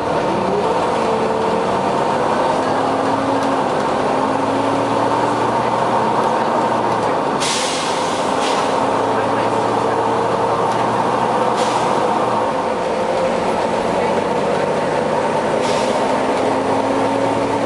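Volvo B9TL bus with its 9-litre six-cylinder diesel running, its engine note gliding up and down under a steady whine from a very loud cooling fan. Four short hisses of compressed air break through: the first, about halfway through, is the longest, and the others follow near the two-thirds mark and near the end.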